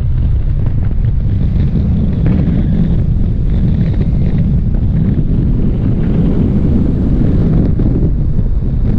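Wind rushing over the microphone in a steady, loud low rumble: the airflow of a paraglider in flight.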